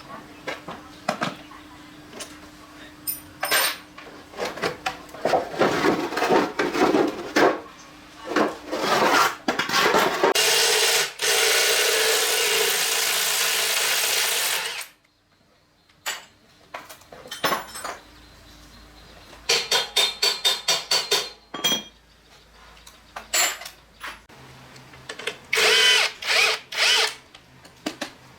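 Power tool at work on motorcycle parts, run in short bursts, with one longer steady run of about four seconds near the middle and a quick rattling series of clicks later on.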